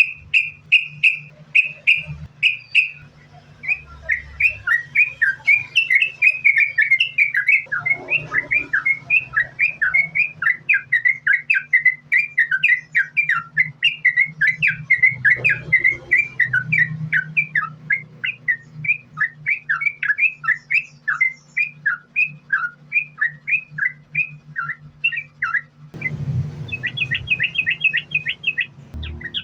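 Yellow-vented bulbul (trucukan) singing a long, unbroken run of quick chirping notes, several a second, with a faster, higher trill near the end. A steady low hum runs underneath.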